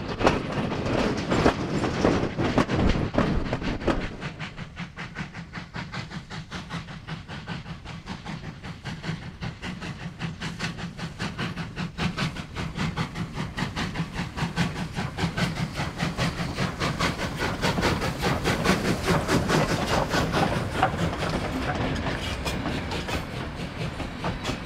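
Goods wagons of a heritage mixed goods train rolling past, their wheels clacking rhythmically over rail joints. The clacking is loudest for the first few seconds as the last wagons and guard's van go by, then drops lower.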